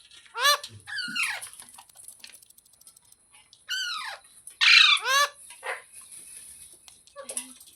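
Indian ringneck parrot giving a series of short, harsh squawks, each sweeping down in pitch. About seven calls come in two clusters with a pause of a couple of seconds between them.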